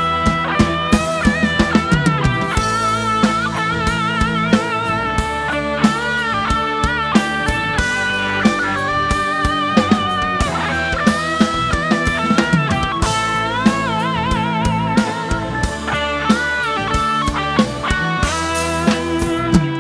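Live rock band playing an instrumental break: a lead electric guitar solo with string bends and wide vibrato over a steady drum-kit beat and sustained low backing.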